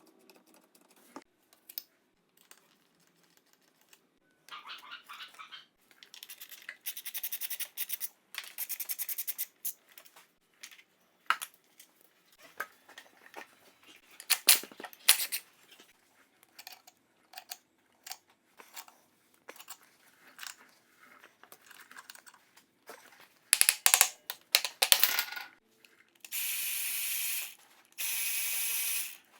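Ratchet wrench clicking in several bursts as bolts are undone to remove a Yamaha YZ250F dirt-bike engine, with sharp metal clinks and clanks of tools and parts in between.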